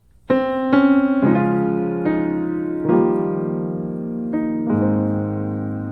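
Slow, gentle piano music: single notes and sustained chords struck a second or so apart, each ringing and fading.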